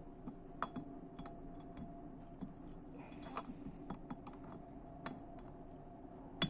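Light, irregular metallic clicks and taps of small engine parts and tools being handled during motorcycle engine assembly, with one sharper click near the end, over a faint steady hum.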